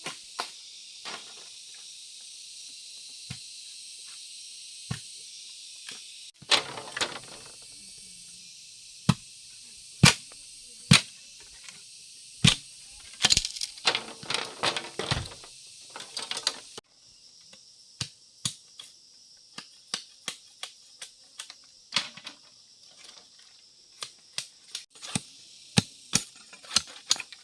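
Irregular sharp knocks, sometimes several a second, over a steady high-pitched drone of insects.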